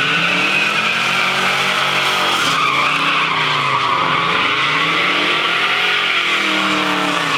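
Vehicle doing a burnout: tyres squealing steadily at high pitch over a hard-revving engine whose pitch rises and falls several times.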